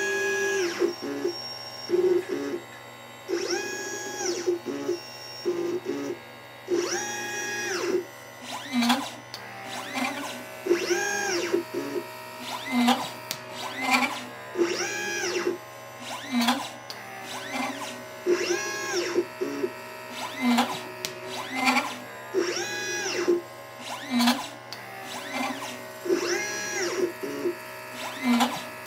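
LitePlacer pick-and-place machine's stepper motors whining as the gantry moves between parts. Each move is a tone that rises, holds and falls, coming every second or two, with short lower buzzes between moves over a steady low hum.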